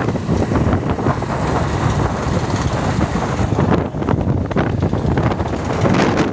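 Loud, steady wind buffeting the microphone with a deep rumble.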